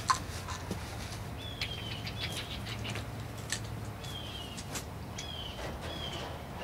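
A bird calling over and over with short, downward-sliding chirps, about six in the span, among a few sharp clicks, the loudest just at the start.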